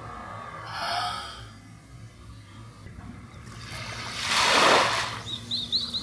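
A wave washing in on the shore: a rushing swell that builds and falls away over about a second and a half. Near the end a bird starts a quick run of short, high chirps.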